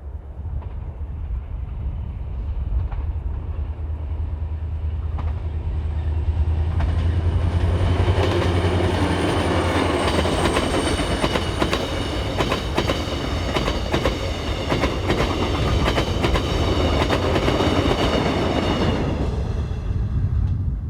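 A diesel locomotive hauling a Mugunghwa passenger train approaches, its engine drone growing louder, then the train runs past with rapid clickety-clack of wheels over rail joints and a high ringing whine from the wheels and rails.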